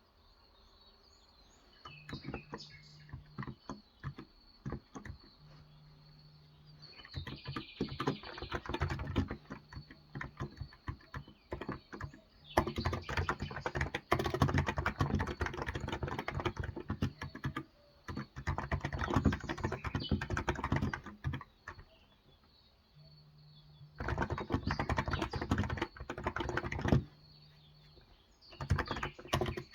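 Typing on a Cox Endeavor electro-capacitive (Topre-style) tenkeyless keyboard with light 35 g keys: several bursts of fast keystrokes separated by short pauses, with only a few scattered presses in the first seconds.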